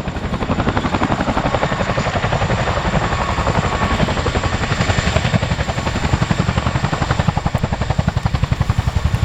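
RAF Boeing Chinook tandem-rotor helicopter with its rotors beating in the characteristic 'wokka' blade slap, a rapid, even throbbing that holds steady throughout.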